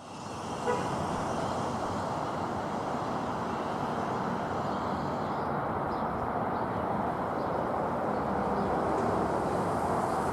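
Boeing 777 jet engines heard at a distance as a steady, even rumble, with a small click a little under a second in.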